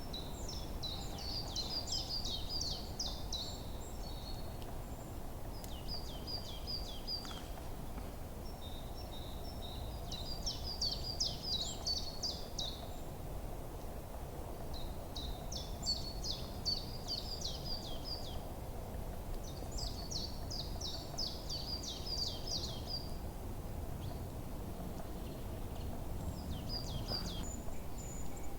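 A songbird singing short phrases of rapid high notes, repeated every few seconds with brief pauses between, over a steady low background rush of forest ambience.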